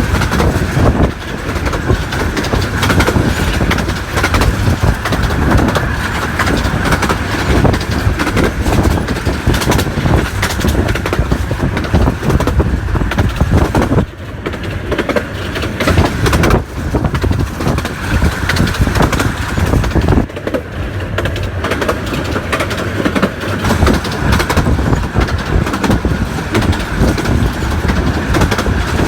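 A 15-inch gauge miniature railway train running along the track: a loud, steady rumble with rattling and clatter, and brief lulls about 14 and 20 seconds in.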